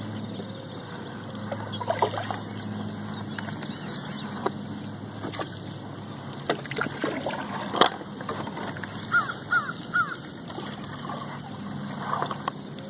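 A bird calling in short arched calls, three in quick succession about two-thirds of the way in, over a steady low hum that fades early on and scattered sharp clicks.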